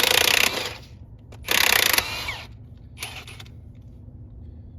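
Milwaukee 1/2-inch drive cordless impact wrench run in short bursts on the hub nuts: three rattling bursts, the second winding down with a falling whine.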